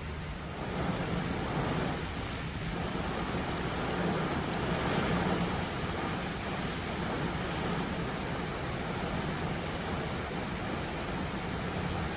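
Heavy rain falling steadily in a severe thunderstorm, swelling louder about a second in.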